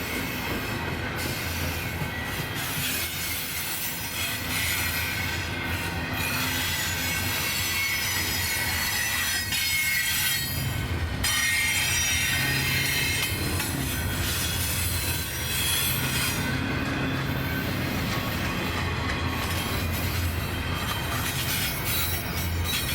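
Freight cars of a passing train rolling by on the rails, with a steady rumble and high-pitched wheel squeal.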